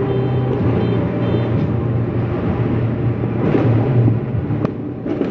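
Fireworks going off: a continuous loud rumble of bursts echoing along the street, with a couple of sharp cracks near the end.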